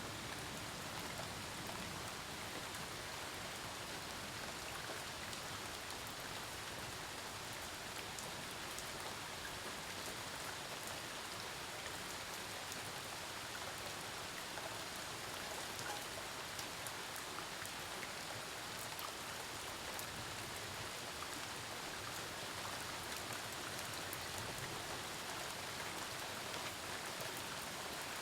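Steady rain falling in a storm: an even hiss at a constant level, dotted with the fine ticks of individual drops striking.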